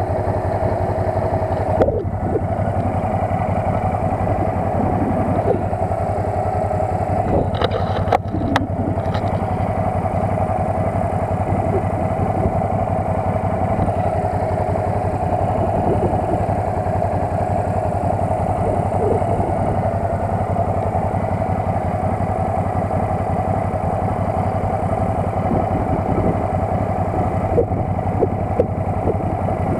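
Quad bike (ATV) engine running steadily, with a few brief knocks about eight seconds in.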